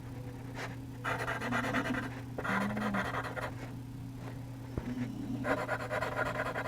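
Charcoal pencil scratching across textured charcoal paper in short strokes, about a second each, three times, over a faint steady hum.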